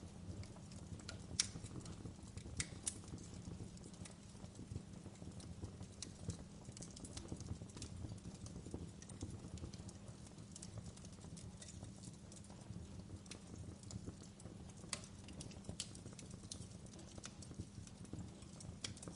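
Wood fire crackling: irregular sharp pops and snaps over a steady low rumble of burning, with one louder pop about a second and a half in.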